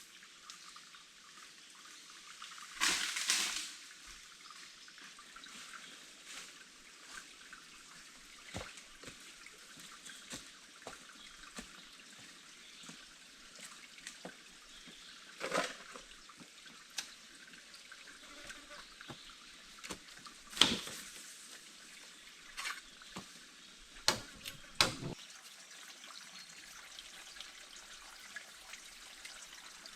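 Water dripping and trickling, with a louder burst of noise about three seconds in and a few sharp clicks later on.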